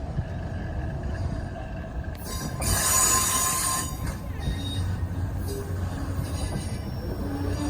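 A train rolling past with a steady low rumble, its wheels squealing high and loud for about a second a little before the middle.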